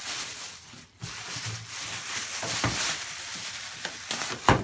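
Rustling and crackling handling noise as a boxed microwave oven is moved about, with a few light knocks and one sharp knock just before the end.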